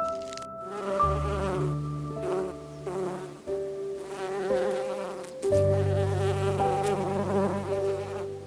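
A flying insect buzzing, like a fly or bee, its drone wavering and swelling in bursts over held steady tones.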